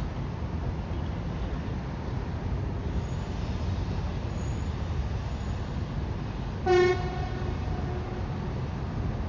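Steady low outdoor rumble with a single short horn toot about two-thirds of the way through, one pitch that lingers faintly for about a second after the blast.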